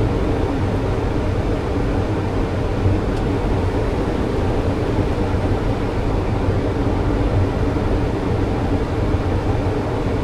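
Steady low rumble of air rushing past a Boeing 737 cockpit, mixed with its engines, during the final approach to landing.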